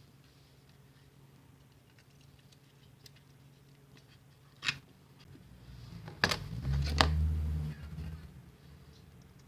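Scattered faint ticks and a sharp click as small mouse parts are handled. This is followed by a louder stretch of rubbing and handling noise with two sharp clicks and a brief low hum.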